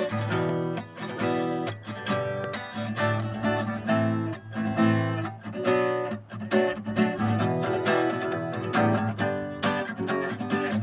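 Acoustic guitar strummed in a steady rhythm, chords without a voice.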